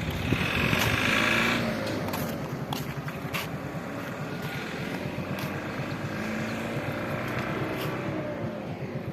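Lorry engine running as the truck drives along, with a louder hissing burst about half a second in and a few sharp clicks.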